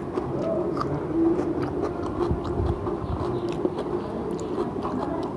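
A person chewing mutton dum biryani close to the microphone: wet mouth smacks and small clicks at an irregular pace, over a steady low hum.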